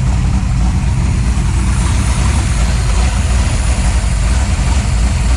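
A car engine idling steadily, a low, even rumble.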